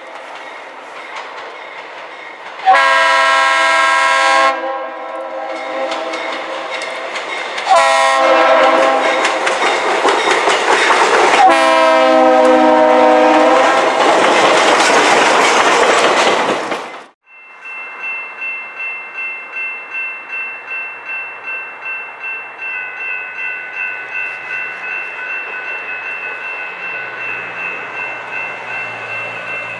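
Diesel locomotive horn sounding three chord blasts over the rumble of a moving train, the last one long and running into the loud noise of the train passing close. The sound then cuts off abruptly and is followed by steady ringing that pulses about one and a half times a second, like a grade-crossing bell.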